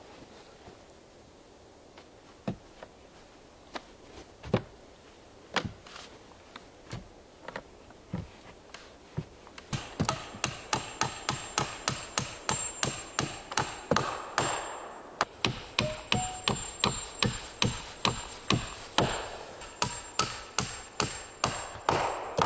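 A hand tool striking wood with repeated sharp blows: spaced about a second apart at first, then from about halfway a fast, steady run of about three blows a second.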